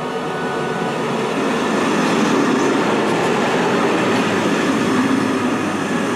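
Passenger train rolling along a station platform, its wheels rumbling on the rails as the carriages pass close by, swelling in loudness over the first couple of seconds and then holding steady.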